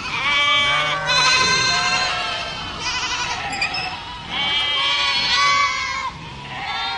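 A herd of goats bleating, several calls overlapping with a wavering, quavering pitch, in two loud bouts with a short lull between them.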